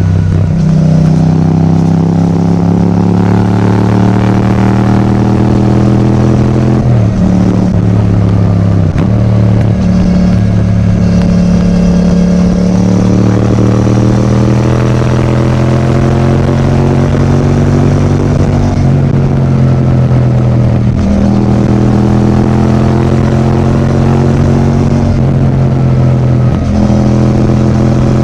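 Yamaha MT-07's 689 cc parallel-twin engine breathing through an Akrapovič titanium exhaust, accelerating under way. The pitch climbs steadily and falls sharply at each upshift, several times over.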